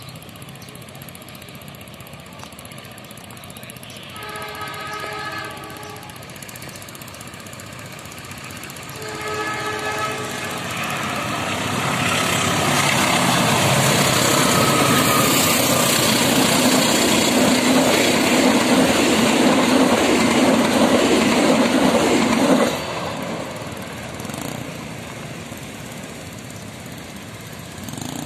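Diesel locomotive of the Lokal Cepu local economy train sounding its horn in two blasts a few seconds apart as it approaches. The loud run of the locomotive and its passenger coaches over the rails follows as the train passes, and cuts off suddenly near the end, leaving a quieter background.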